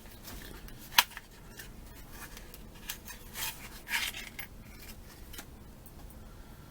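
Small parts and packaging being handled on a workbench: a sharp click about a second in, then short scraping rustles a few seconds later.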